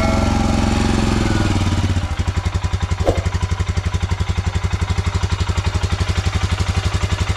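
Motorcycle engine idling with an even, rapid thump. It runs a little higher and smoother for the first two seconds, then settles into a steady idle.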